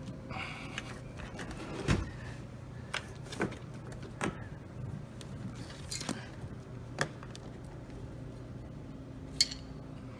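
Irregular clicks and knocks of dishwasher parts, hoses and wiring being handled during repair, the loudest a thud about two seconds in and a sharp click near the end, over a steady low hum.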